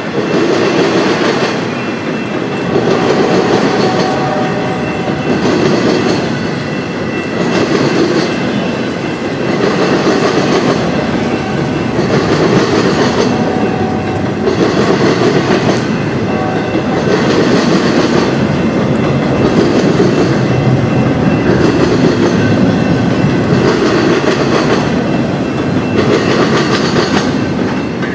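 A freight train's cars rolling past, their wheels clacking over the rail joints in a pattern that swells and eases about every two seconds.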